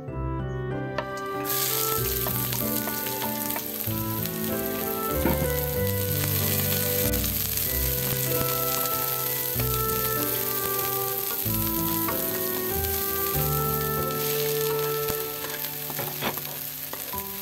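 Sliced shallots and green chilies sizzling in hot oil in a nonstick wok. The sizzle starts about a second and a half in as they go into the pan, and they are stirred with a wooden spatula. Background piano-like music plays throughout.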